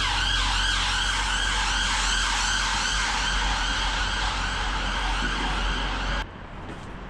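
A siren that rises to a steady high pitch with a fast repeating warble over it, then cuts off abruptly about six seconds in.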